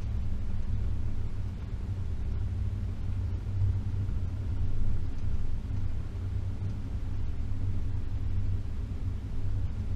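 Range Rover P38's 4.0-litre V8 and drivetrain giving a steady low rumble as the vehicle drives slowly along an off-road lane.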